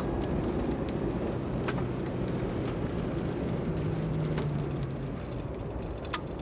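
A car driving, with a steady low engine and road rumble and a faint hum in the middle, plus a few light ticks.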